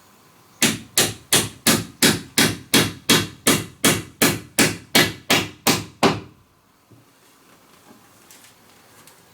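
A hammer striking in a steady run of about sixteen even blows, roughly three a second, that stops about six seconds in.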